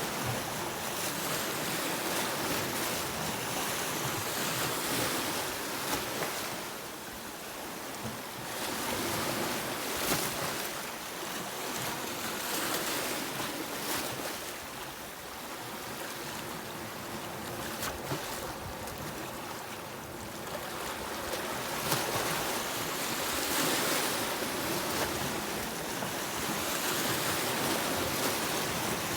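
Sea waves breaking and washing up the shore, a continuous surf noise that swells and eases over several seconds.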